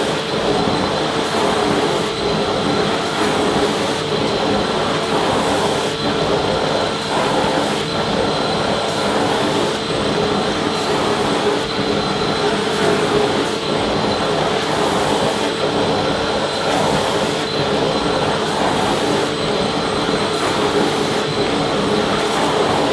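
Vacuum cleaner running steadily: an even rush of air with a constant motor hum and a high whine held throughout.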